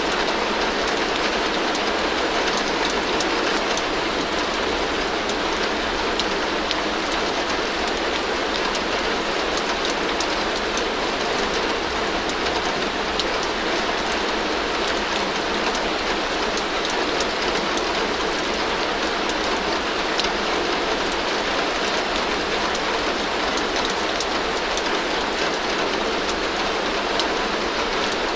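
Heavy rain falling steadily on a tin roof, a dense even patter with fine ticks of single drops on the metal.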